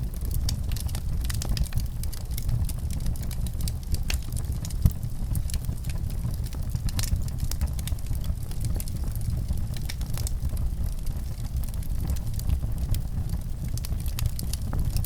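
Wood fire in a fireplace crackling, with frequent irregular sharp pops over a steady low rumble of burning.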